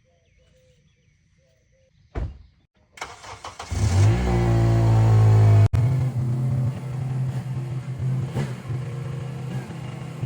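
A thump about two seconds in, then a vehicle engine is cranked and starts about a second later, revs up loudly, and settles into a steady run.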